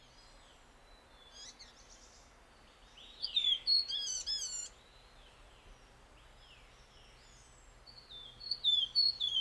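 White-throated laughingthrushes calling: two bursts of quick, down-slurred whistled notes, about three seconds in and again near the end.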